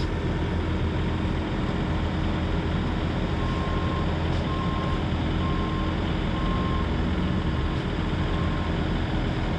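Heavy tow truck's engine running steadily under load. A reversing alarm beeps about once a second for several seconds, starting about three seconds in.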